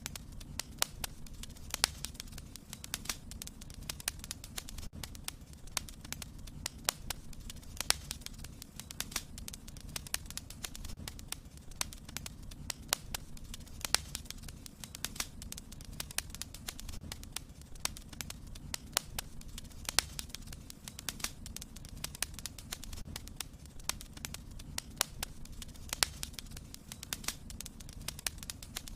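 Wood fire burning in a fireplace, crackling: many sharp, irregular pops and snaps over a low, steady rumble.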